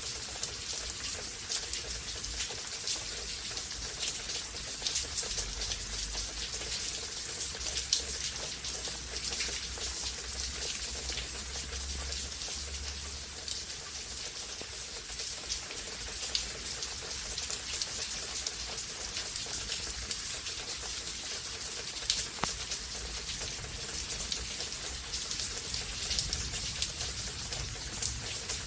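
Steady rain storm: an even hiss of rainfall with many sharp ticks of individual drops striking nearby surfaces.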